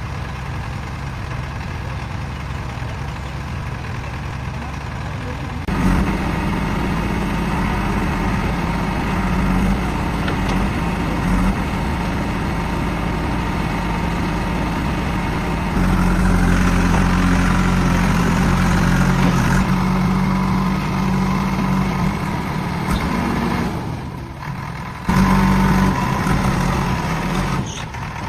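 Heavy diesel vehicle engine running steadily. Its level jumps up sharply about a fifth of the way in and again about halfway, and dips briefly near the end before coming back loud.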